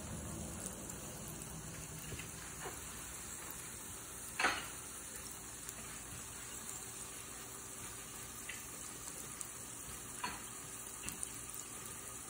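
Scallion pancakes frying in oil in a pan: a steady sizzle with a few sharp pops, the loudest about four and a half seconds in.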